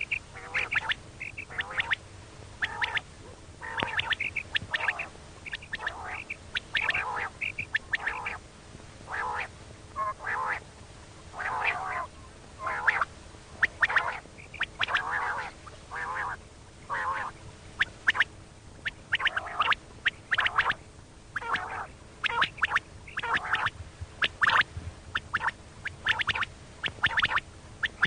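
Female common quail calling: short, nasal 'kirik' notes in quick groups, repeated over and over. It is the call used to lure quail for hunting.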